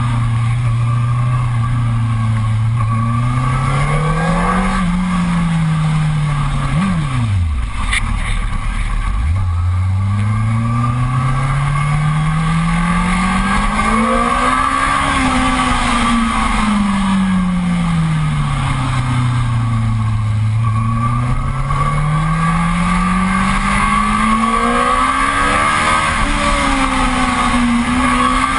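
Yamaha R1 sportbike's inline-four engine heard from on board. Its pitch climbs and falls in long slow sweeps as the throttle is opened and eased, with a sharp drop about seven seconds in.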